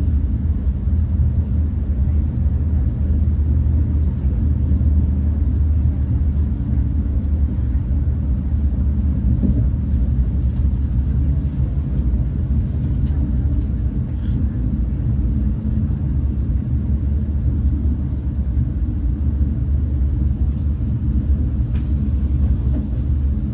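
Steady low rumble of a Renfe Class 130 (Talgo 250) high-speed train running along the line, heard from inside the passenger coach, with a few faint ticks.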